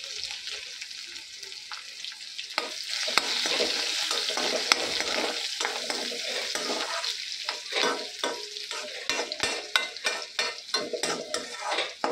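Chopped garlic, green chillies and ginger sizzling in hot oil in a metal kadhai, the sizzle swelling about two and a half seconds in. A metal spatula stirs them, scraping and clicking against the pan, busiest in the second half.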